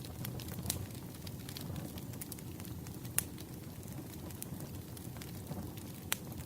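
Campfire burning, a steady low rumble with scattered sharp crackles and pops, two of them louder.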